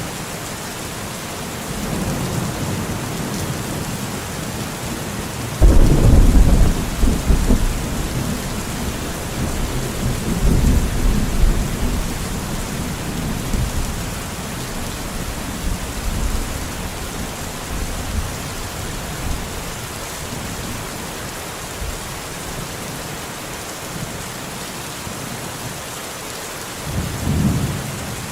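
Steady heavy rain with rolling thunder: a loud rumble breaks in suddenly about six seconds in and rolls on for several seconds, another swells a few seconds later, and a shorter rumble comes near the end.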